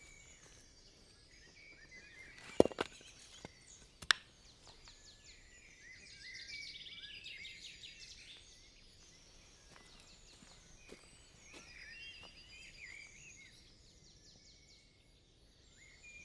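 Birds singing and chirping in woodland, with two sharp knocks or snaps about two and a half and four seconds in.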